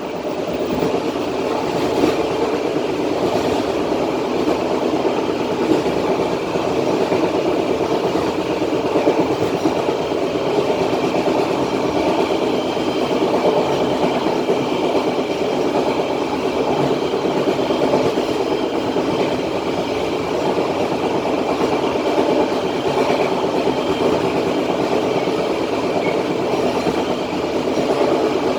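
Passenger train running along the track, heard from the rear of the last coach: a steady rumble of wheels on rail with occasional clicks over rail joints.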